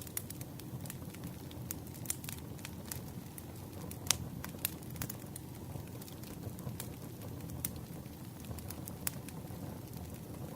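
Wood campfire crackling: irregular sharp pops and snaps over a steady low rumble of burning flames, with the loudest pop about four seconds in.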